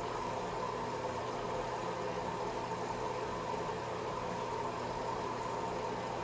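Washing machine running with a steady, even hum and a faint constant tone.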